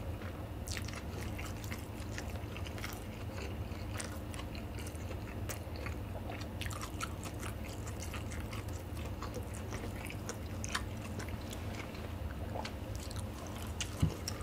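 A man chewing a mouthful of food close to the microphone, lips closed: a run of soft, irregular mouth clicks.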